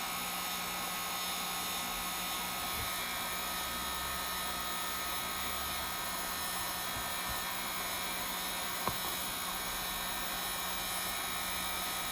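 Heat gun blowing steadily, an even hiss with a faint hum, as it softens the adhesive under a phone's back glass. A single short click comes about nine seconds in.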